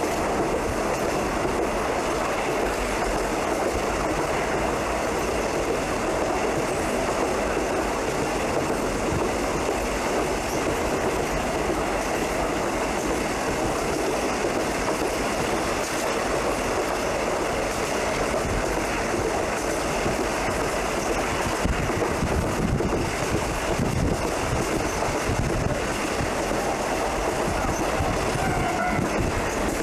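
Tamsui Line passenger train running along the track, a steady, unbroken running noise of wheels on rail.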